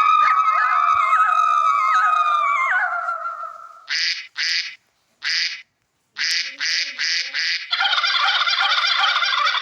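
Birds calling: several long, overlapping honking calls that fade out, then about seven short harsh calls with gaps between them, and a dense chorus of calls near the end.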